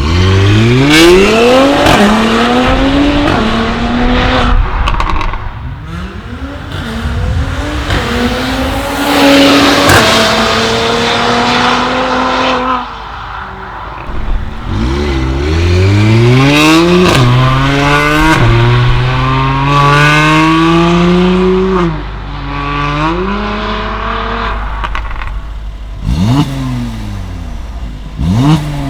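Mercedes-AMG GLC43's twin-turbo V6 through an Armytrix valvetronic exhaust, accelerating hard through several gears. The pitch climbs and drops at each upshift, and there are a few short, sharp revs near the end.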